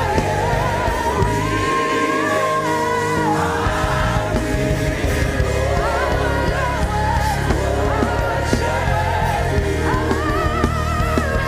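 Live gospel worship music: singing voices with vibrato over a sustained band accompaniment. The bass drops out briefly about two seconds in, then comes back.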